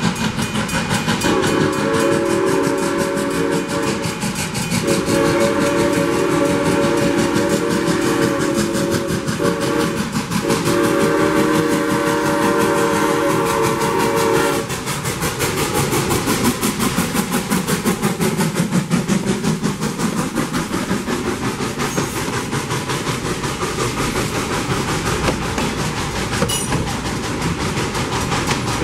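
Locomotive air horn sounding three long blasts, a chord of several notes, through the first half, while a train rolls past with a steady clickety-clack of wheels over the rail joints.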